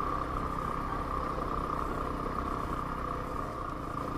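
Yamaha WR250R dual-sport motorcycle's single-cylinder four-stroke engine running steadily at low speed in first gear.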